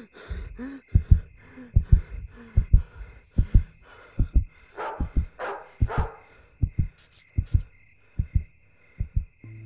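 Heartbeat sound effect: paired low thuds, lub-dub, repeating steadily about every 0.8 seconds over a faint, steady high ringing tone. Two soft whooshes come around the middle, and a low drone begins near the end.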